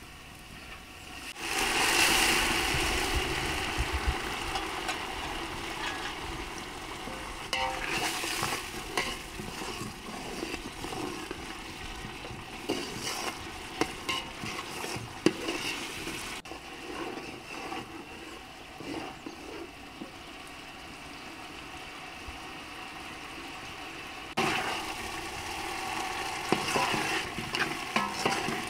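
Food sizzling in hot oil in a cooking pot. The sizzling starts suddenly about a second and a half in and slowly dies down, with scattered clinks of a utensil stirring against the pot. It picks up again near the end.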